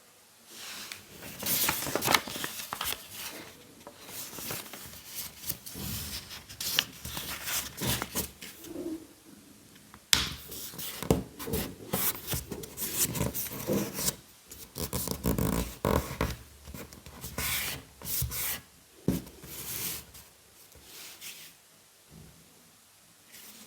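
Paper being handled and folded by hand: irregular rustling, rubbing and creasing, thinning out near the end.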